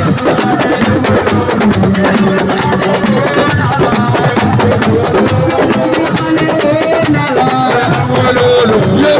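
Live assiko band music: fast, dense drumming with shakers under a wavering melodic line.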